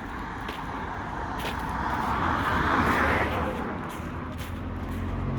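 A car passing by on the road, its tyre and engine noise building to its loudest about three seconds in and then fading away.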